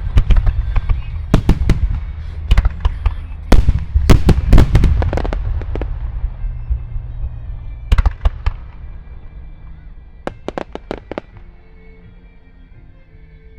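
Large aerial firework shells fired in quick succession and bursting with loud booms and a rolling echo, dense at first and then thinning to a few last bangs. Faint music comes through near the end.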